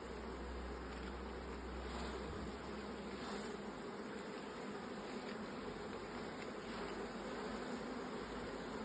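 Honeybees buzzing around an open hive: a steady hum of many bees.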